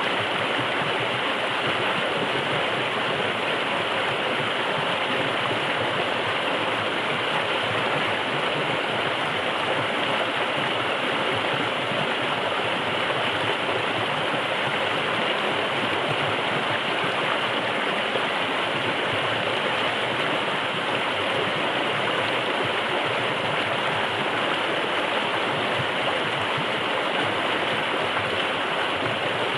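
Forest river flowing: a steady, even rush of water that does not change.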